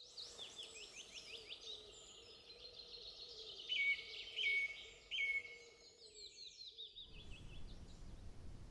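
Wild birdsong: several small birds singing together, quick repeated chirps and whistles, with three louder calls about a second apart in the middle. The song stops about seven seconds in, giving way to a steady low hiss.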